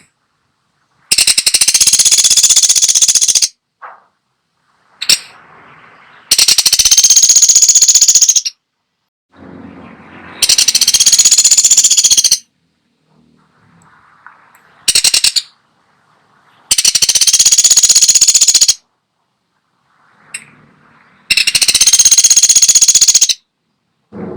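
Pelatuk sampit woodpecker giving loud, fast rattling bursts about two seconds long, five times and once briefly, with short pauses between them.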